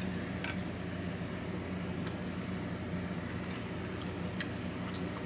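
A person chewing a bite of cooked octopus tentacle: faint, scattered wet mouth clicks over a steady low hum.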